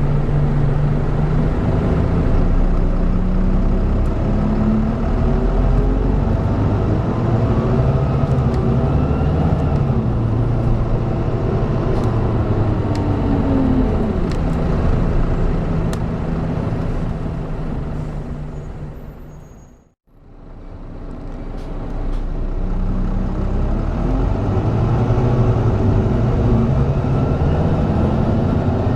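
Volvo B9TL bus's Volvo B9B diesel engine pulling through the gears of its ZF Ecomat automatic gearbox, the engine note climbing and dropping in pitch. The sound fades out to silence about two-thirds of the way through, fades back in, and the engine climbs again.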